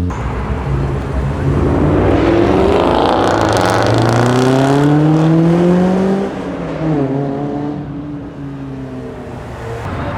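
A car's engine revving hard under acceleration, its pitch climbing for several seconds, then dropping sharply at an upshift about six seconds in before it pulls away and fades.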